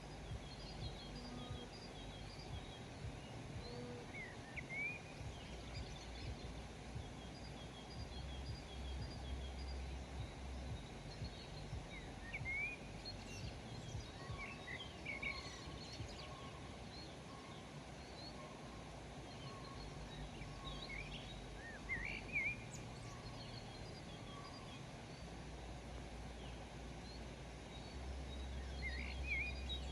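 Small birds chirping and calling, short quick notes scattered throughout, with a few louder calls around the middle and near the end, over a steady low background noise.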